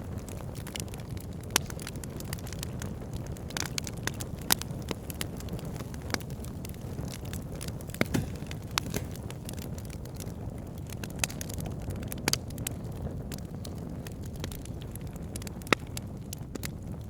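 Wood fire burning: sharp crackles and pops, a few of them much louder and spaced several seconds apart, over a steady low rumble.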